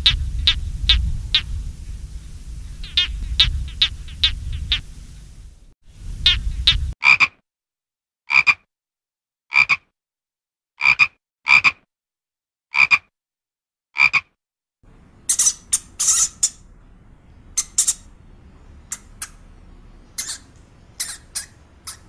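Frogs croaking in series of short, evenly repeated calls, about one a second, across several joined clips. Some calls sit over background noise, and the later ones are higher and sharper.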